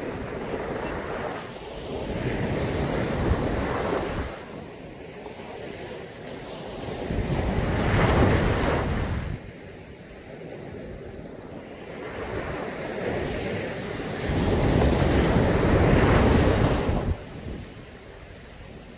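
Caribbean Sea surf breaking on a beach in three surges about six seconds apart, each swelling and falling away; the last is the loudest.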